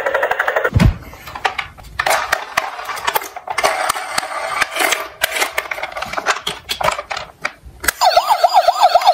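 Small toy cars rattling and clattering down a slope, with a thump about a second in and scattered clicks of plastic and metal knocking together. Near the end a toy's electronic siren starts, a fast warbling wail.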